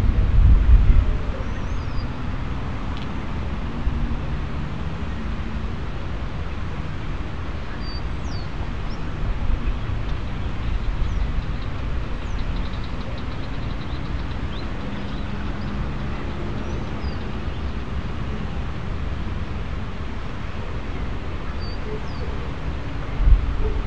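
Steady outdoor ambience: a low rumble and hiss with a louder low buffet in the first second, and a few faint, brief high chirps scattered through it.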